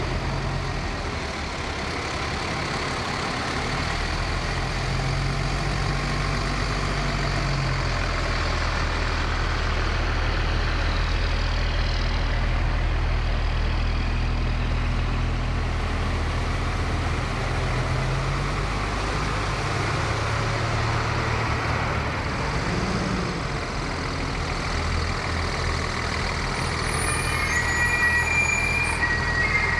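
Heavy fire trucks' diesel engines running as they roll slowly past, a steady low rumble. Some high steady tones come in near the end.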